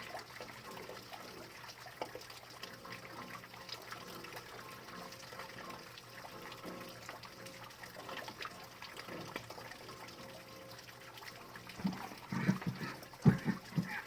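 Rain dripping and trickling: a steady patter of many small drops, with several louder, lower sounds close together near the end.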